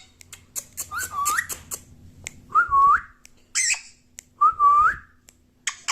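Pet parrot whistling three times, each note sliding up at its end, with short harsh squawks in between.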